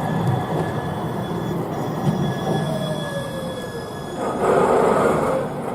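Tram running on rails with a steady low rumble and thin, steady whining tones, a slowly falling tone near the middle, and a louder noisy swell lasting about a second near the end.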